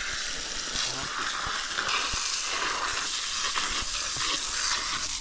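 Wood fire crackling, with a steady hiss and many small irregular pops.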